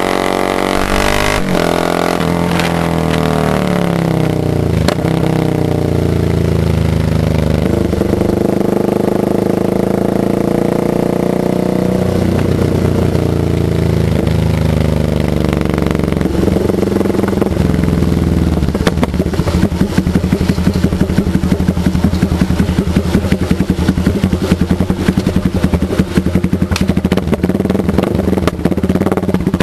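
Motorcycle engine running, its pitch rising and falling as the throttle is opened and eased off. About two-thirds of the way in it settles into a fast, even pulsing beat.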